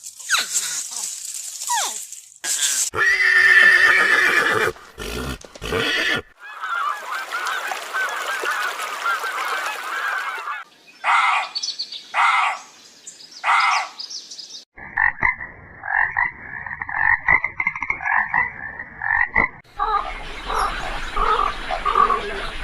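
A run of different animal calls, one short clip after another, each starting and stopping suddenly. Near the middle there is a few-second stretch of calls repeated several times a second.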